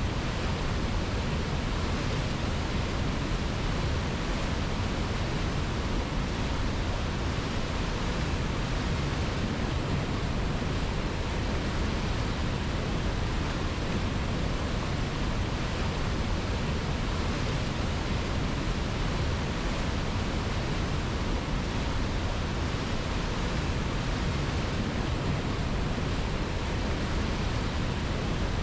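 Flowing river: a steady, even rush of water with no changes or distinct splashes.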